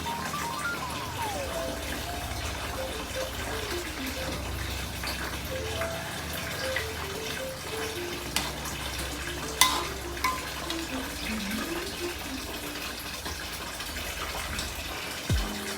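Water running from a tap, with a soft lo-fi music track over it and a single sharp knock about ten seconds in.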